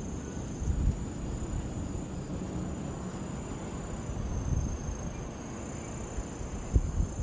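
Insects chirring in a steady high, thin tone, over a low outdoor rumble, with a couple of short knocks near the end.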